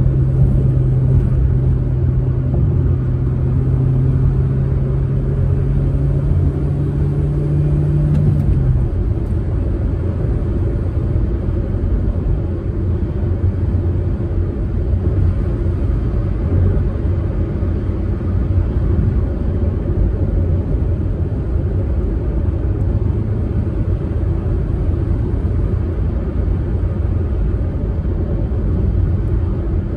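Proton Saga car driving along with a steady low rumble of engine and road noise. For the first eight seconds or so a steady engine hum sits on top, rising slightly before it drops away.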